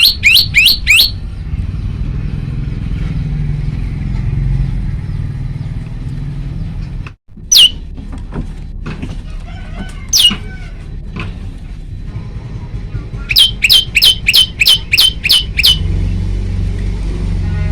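Male tailorbird (prenjak lumut) singing in quick runs of sharp, high, downward-slurred notes: about five at the start, a few single notes in the middle, and a run of about nine near the end. A steady low rumble runs underneath.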